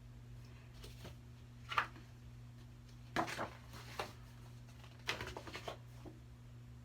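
A few short rustles and taps as a picture book is handled and opened, over a steady low electrical hum.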